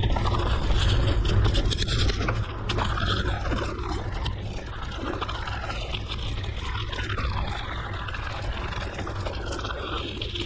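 Mountain bike rolling on a gravel forest road: steady tyre noise on the gravel with wind rumbling on the microphone, a little louder in the first two seconds.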